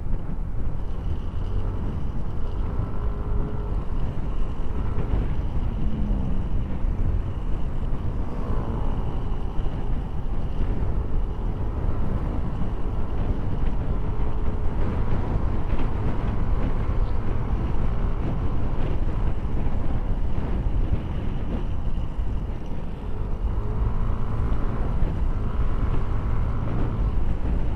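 Motorcycle ridden on the road, heard from an on-board action camera: the engine's note rises and falls now and then under a steady heavy rumble of wind and road noise.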